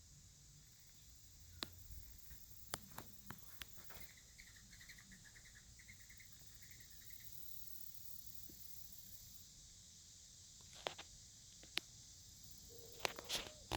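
Quiet ambience with a faint steady high-pitched hiss, a run of soft, quick bird chirps from about four to seven seconds in, and a few sharp clicks and taps, the loudest near the end.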